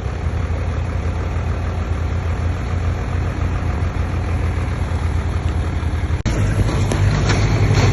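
Diesel engine of a Komatsu D20P bulldozer running steadily with a low drone. About six seconds in the sound breaks off for an instant, then comes back louder with added clatter.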